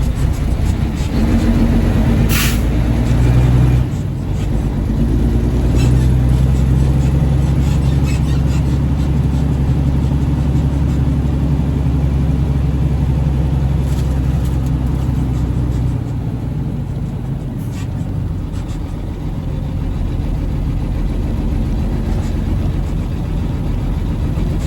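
Triaxle dump truck's diesel engine running with a steady low drone that changes about four seconds in and again about sixteen seconds in, with a short hiss of air about two seconds in.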